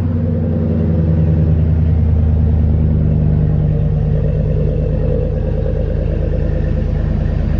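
GMC pickup's newly installed replacement engine idling steadily just after start-up, running smoothly with no unusual noise.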